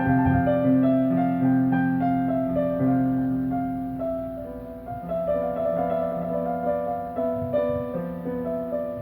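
Background piano music, slow sustained chords.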